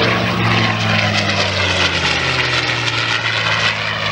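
Propeller-driven aerobatic airplane's engine making a low flyby pass, its drone sliding slowly down in pitch as it goes past.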